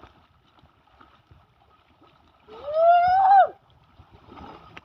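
One long drawn-out vocal call, a second long, that rises and then falls in pitch, about two and a half seconds in.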